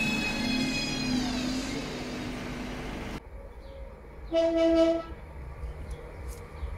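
Renfe Civia electric commuter train moving past the platform, its motor whine sliding down in pitch as it slows; the sound cuts off suddenly about three seconds in. About a second later a train horn gives one short blast, the loudest sound here.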